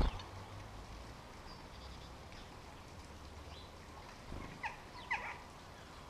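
Garden outdoor sound with a low wind rumble on the microphone and a dull thump at the start. About four and a half to five seconds in, a small garden bird gives two or three short, downward-sliding chirps.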